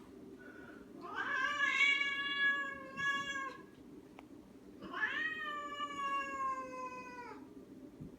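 Domestic cat yowling: two long, drawn-out calls a couple of seconds apart, each sagging in pitch at the end, the hostile yowl of an agitated cat.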